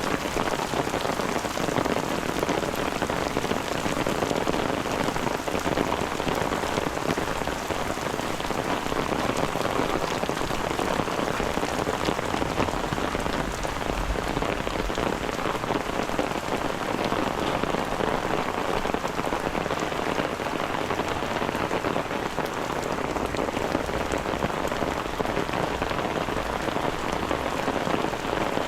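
Steady rain falling: an even hiss thick with fine drop ticks, holding level throughout.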